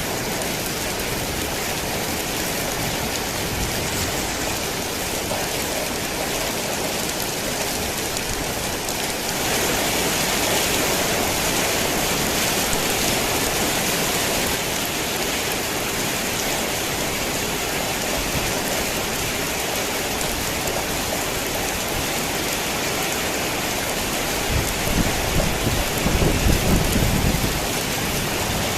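Heavy rain falling steadily on a tin roof, a little louder for a few seconds about ten seconds in, with a low rumble of thunder near the end.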